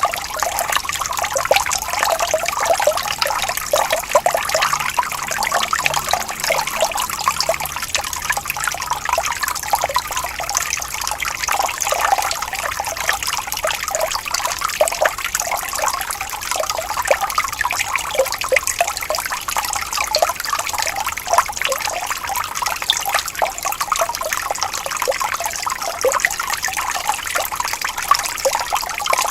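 Shallow water flowing and trickling steadily over stones, a continuous babble of small splashes and gurgles.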